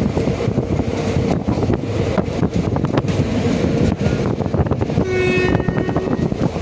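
Passenger train running, heard from on board: a steady rumble of wheels on rails with rapid clicking over the joints. A train horn sounds briefly about five seconds in.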